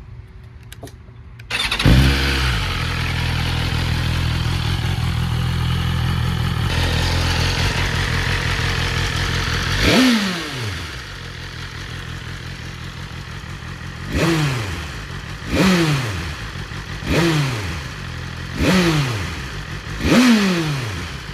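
2023 BMW S1000RR's inline-four on its stock exhaust with catalytic converter starts up about two seconds in and runs steadily. It then settles to a quieter idle between six short throttle blips, the last five coming about every second and a half.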